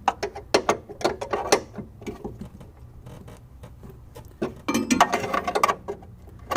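Wrench loosening the stiff 12 mm nut on the end of a car's trunk lid strut, with runs of sharp metallic clicks in the first second or so and again near the end.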